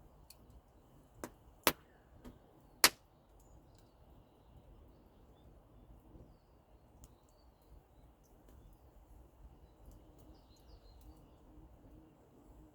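Four sharp cracks of wood in quick succession in the first three seconds, the last the loudest, over a faint steady outdoor hiss.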